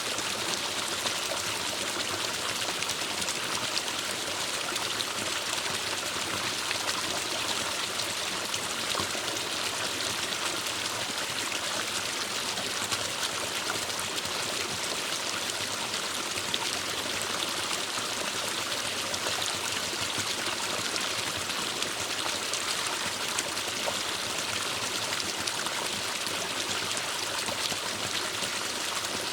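Forest stream running steadily, water trickling and splashing over rocks.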